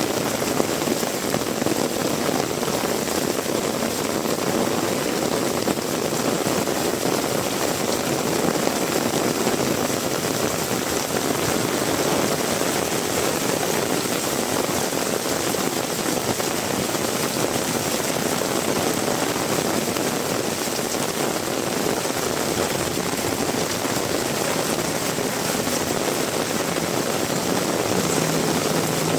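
Heavy rain pouring steadily: a dense, unbroken hiss. A faint low hum comes in near the end.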